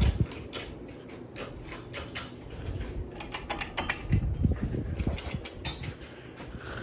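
Several ceiling fans running with a steady low hum, along with many irregular light clicks and ticks and a few soft low thumps.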